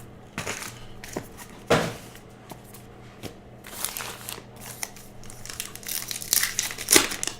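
Trading card pack wrappers being torn open and crinkled, with the cards handled, in a run of irregular crackles and rustles. The sharpest tears come about two seconds in and near the end.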